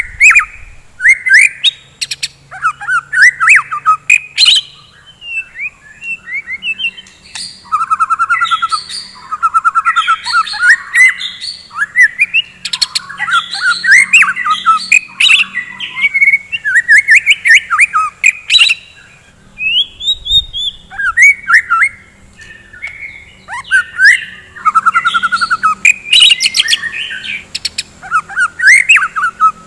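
White-rumped shama (murai batu) singing at full tilt: a varied song of whistled phrases, fast trills and sharp clicking notes, with a few brief pauses.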